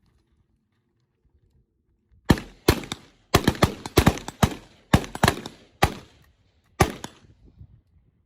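A rapid, uneven string of about a dozen gunshots over roughly five seconds, starting about two seconds in, some following each other in quick pairs.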